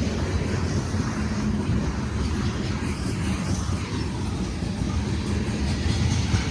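Steady low rumble of a short freight train rolling past, with a faint steady hum over it.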